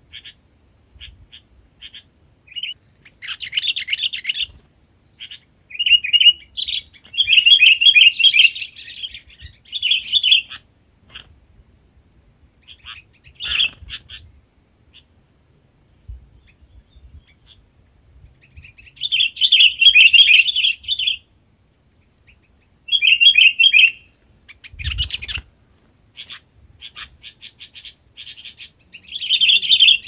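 Sooty-headed bulbuls (kutilang) calling in short bursts of rapid notes every few seconds, with a long pause in the middle, over a steady high insect buzz.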